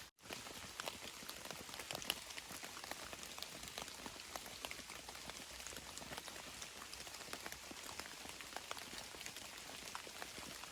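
Steady rain, with many separate drops pattering close by.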